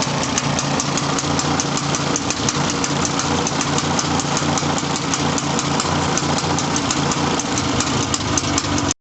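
Vintage snowmobile engine idling steadily, with a regular sharp ticking of about three ticks a second. The sound cuts off abruptly near the end.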